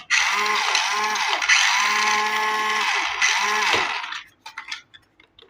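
Small electric motor and plastic gearbox of a toy RC vehicle whirring in short bursts, its pitch rising and falling with each burst and held steady for about a second midway. It stops about four seconds in, leaving a few faint clicks.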